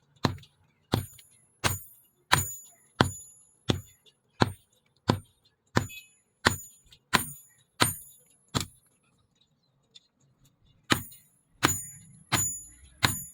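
Hammer blows on steel against an anvil: a sharp strike with a bright metallic ring about every 0.7 seconds, stopping for about two seconds partway through and then resuming.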